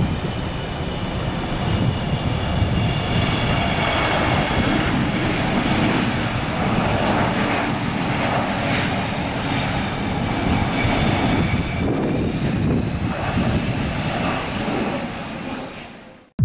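Boeing 777 jet airliner on final approach, its engines running with a steady jet rumble and a faint high fan whine. The sound fades away shortly before the end.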